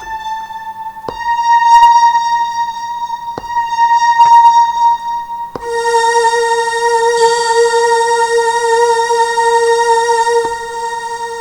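Synthesizer pad patch from a Roland MD-C1 sound module, played from controller pads: held notes that change about a second in and again about halfway through, where a lower note joins, each change starting with a click from the pad being struck. A breathy hiss rises over the held chord for a few seconds near the end.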